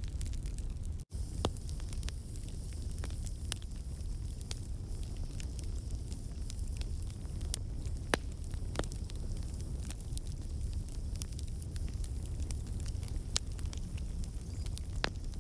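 Campfire of burning logs: the wood crackles with frequent sharp pops over a steady low rumble of the flames. The sound cuts out for an instant about a second in.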